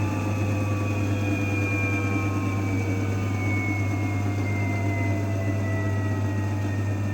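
AEG washing machine running: a steady low motor hum with a thin whine that slowly falls in pitch, as the drum motor slows.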